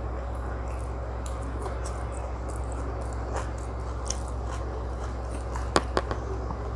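Close-miked chewing and wet mouth sounds of someone eating chicken biryani and tandoori chicken, with scattered small clicks and two sharper snaps near the end, over a steady low hum.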